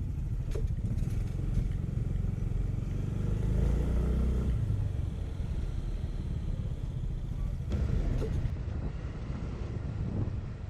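Yamaha Mio Gear S scooter running on the road, a steady low engine rumble mixed with road and wind noise, swelling a little louder about four seconds in.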